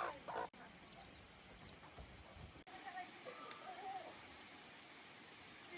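Small birds chirping, faint: a run of short, high chirps repeating over and over.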